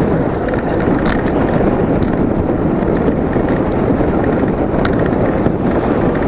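Steady wind rushing over the microphone of a moving bicycle, mixed with road and traffic noise, with a couple of brief clicks about a second in and near the end.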